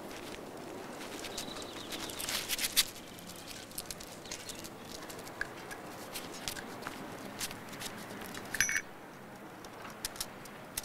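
Outdoor ambience with a steady hiss, scattered light clicks and a few short, high bird chirps.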